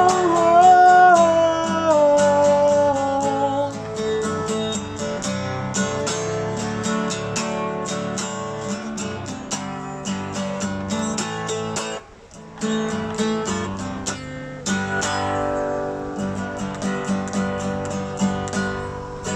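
Acoustic guitar strummed with a held, wavering sung note over it for the first few seconds; the strumming carries on alone, stops briefly about twelve seconds in, then resumes.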